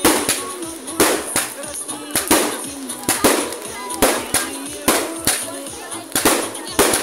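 Fireworks going off in a steady series, a sharp bang every half second to second, each with a short crackling tail.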